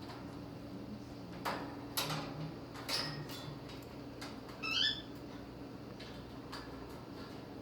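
A young cockatiel gives one short rising chirp about two-thirds of the way through. A few light clicks and taps come earlier, over a steady low hum.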